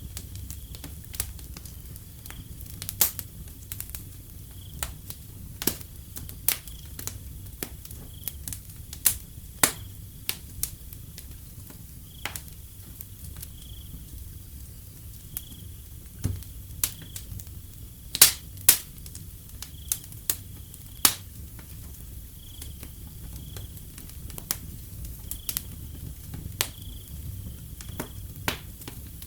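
Wood fire crackling, with irregular sharp pops and snaps over a low steady rumble of flames. Crickets chirp in short high pulses, roughly once a second.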